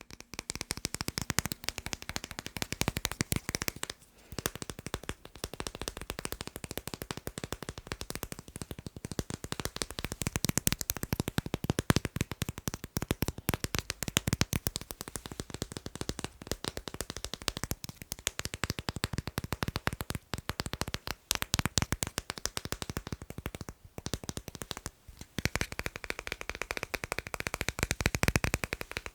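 Fast tapping on magnets: a dense, rapid run of sharp clicks, broken by a couple of brief pauses.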